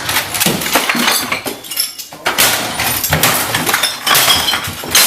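Irregular clinking and clattering of hard objects being moved and knocked together, as tools and gear are rummaged through in search of an axe.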